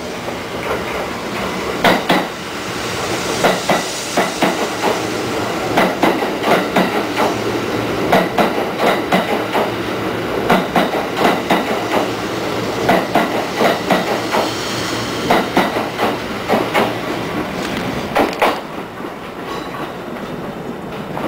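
Kintetsu 50000 series Shimakaze limited express rolling past along the platform, its wheels clicking steadily over the rail joints. The clatter stops about eighteen seconds in, leaving a quieter hum.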